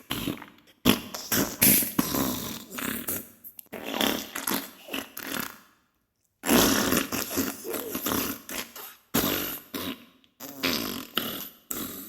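Diarrhea sound effect: a run of fart bursts, several in a row, broken by brief silences about halfway through and again near the end.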